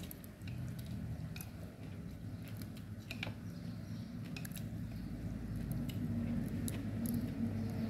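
A person chewing a mouthful of rice vermicelli noodles: small wet clicks and smacks of the mouth, scattered irregularly, over a steady low hum.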